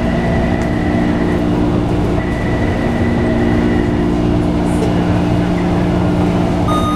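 Train running steadily: an even rumble with a constant low hum.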